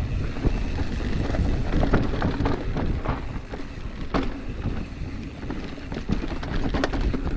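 Mountain bike descending a dirt downhill trail: wind buffets the microphone and the tyres rumble over the ground, with frequent clicks and knocks as the bike rattles over bumps.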